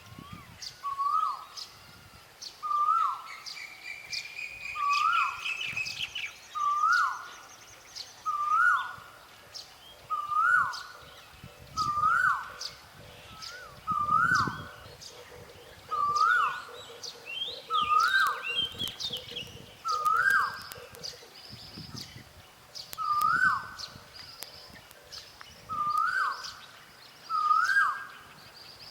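A forest bird repeating one short call, a note that rises sharply and then levels off, about every two seconds, while other birds chirp and trill more faintly at a higher pitch.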